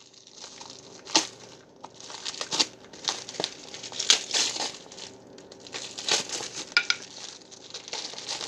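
Crinkly wrapping being handled and crumpled, in an irregular string of rustles and crackles.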